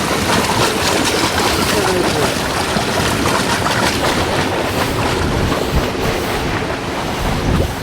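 Fast-flowing floodwater rushing steadily in a river swollen by flooding.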